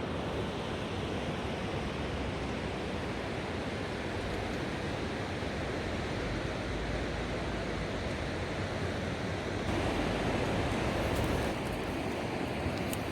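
Rushing river water over rapids: a steady, even rush that swells a little louder for a couple of seconds near the end.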